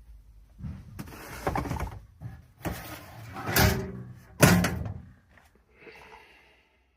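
Pallet-wood box being handled: wood scraping and knocking, like a lid being opened and shut, with the loudest knock about four and a half seconds in.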